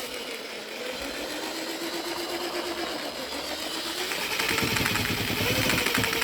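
Electric drill spinning the input shaft of a dry, freshly rebuilt VAZ-2110 gearbox for a noise test, its motor whine rising in pitch and getting louder about four seconds in, with a fast rattle from hard vibration. The noise is the drill's own; the gearbox itself runs without gear noise.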